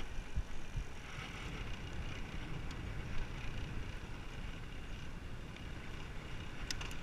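Wind noise from riding a bicycle: steady rushing air with low buffeting on the microphone, gustier in the first second, and a few faint clicks near the end.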